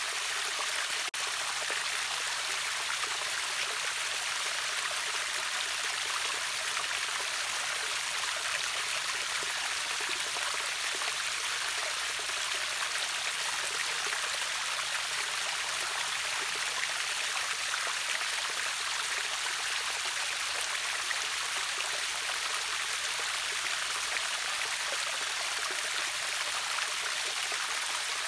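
River waterfall: water rushing steadily, a bright even hiss with little low rumble, and one momentary dropout about a second in.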